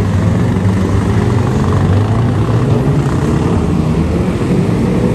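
2-litre saloon stock cars racing, their engines running together in a loud, steady drone.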